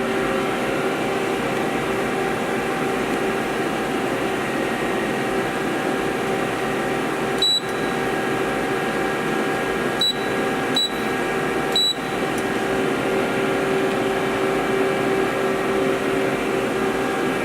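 CNC machine running with a steady hum of several level tones while its axes travel back to the zero reference position. Four short, high beeps come about seven to twelve seconds in.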